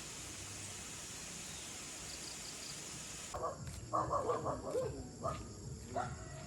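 A steady outdoor hiss, then from about halfway a run of short, pitched animal calls, several in quick succession.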